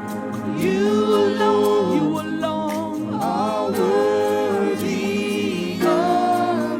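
Worship singing: a voice holding and bending long notes over a steady sustained accompaniment.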